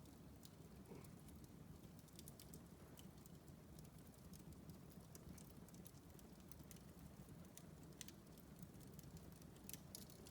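Wood fire in a fireplace crackling faintly, with many small, irregular pops over a low steady background.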